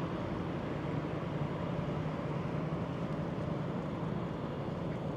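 Steady low rumble of city traffic, an even hum with no distinct events.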